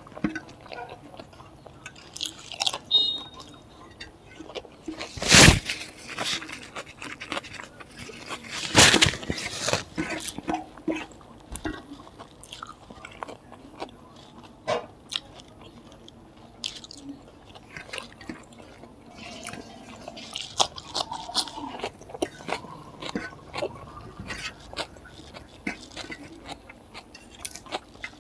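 Close-up eating sounds: a person chewing rice and pork fry and crunching papad, with fingers mixing rice on a metal plate. The food is eaten by hand. The crunches come as many short clicks, with two loud ones about five and nine seconds in.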